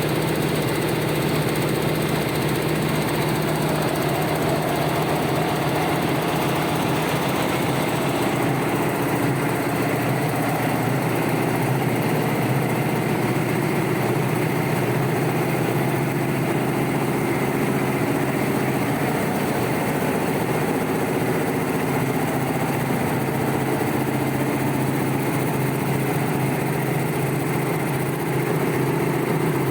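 High-speed warp knitting machine for netting running at speed: a loud, steady mechanical sound with a very rapid, even rhythm. The higher hiss drops slightly about eight seconds in.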